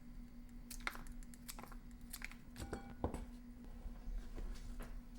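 Faint crisp snips of scissors cutting through fresh green beans, several irregularly spaced cuts.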